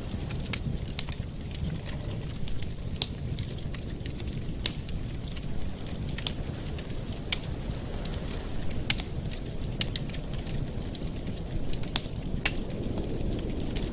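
Campfire burning, the wood crackling with irregular sharp pops over a steady low rumble.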